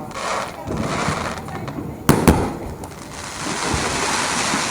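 Aerial fireworks exploding: two sharp bangs in quick succession about two seconds in, followed by a steady hiss that builds from about three seconds on.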